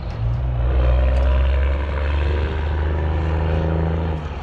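A large engine running steadily with a low droning hum, its pitch shifting slightly about a second in and again near the end.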